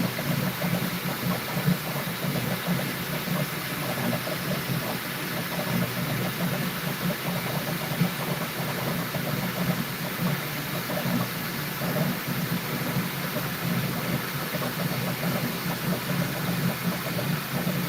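Bambu Lab P1S 3D printer running mid-print: a steady hum of its fans and stepper motors, with quick small rises and falls as the print head moves.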